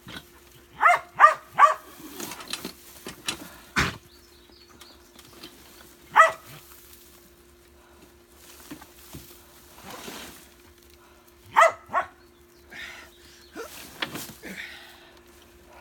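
A small dog barking in short, high yaps: three quick barks about a second in, one near six seconds and two more near twelve seconds. A faint steady hum and a few knocks lie underneath.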